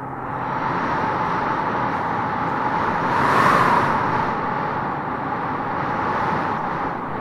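Howling wind gusting through trees, a steady rushing noise that swells into a stronger gust about halfway through, then eases back.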